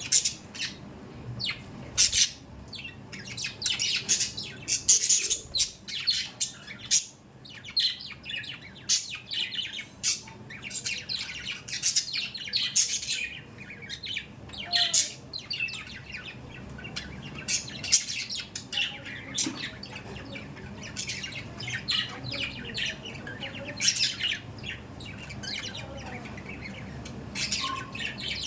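Budgerigars chattering non-stop, with many quick chirps and sharp squawks overlapping one another.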